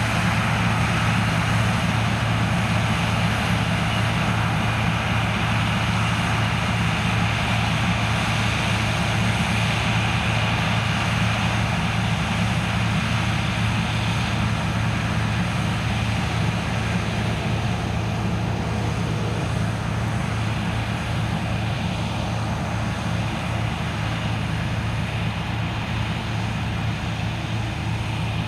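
Heavy farm machinery running steadily at a corn harvest: a constant low engine hum under a broad mechanical noise, easing off slightly toward the end.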